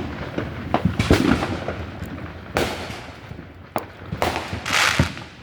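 Fireworks going off: a run of sharp bangs and pops spaced a second or so apart, with a short hissing burst near the end.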